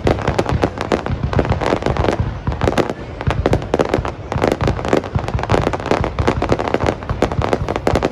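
Fireworks display: a dense, continuous run of rapid bangs and crackles from aerial fireworks going off.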